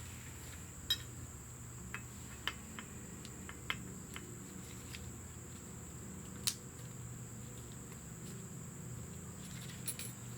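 Small metal brake caliper parts clicking and tapping now and then as they are handled during reassembly, about half a dozen separate light clicks, over a steady low hum.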